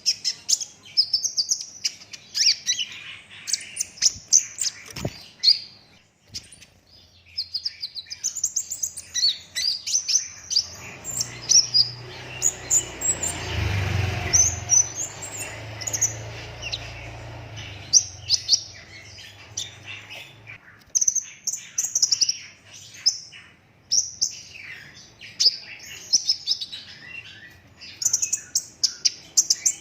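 Brown-throated sunbird (kolibri ninja) singing its rapid, high chattering song in dense bursts of sharp chirps, with a short lull a few seconds in. A low rumble swells in the middle and fades again.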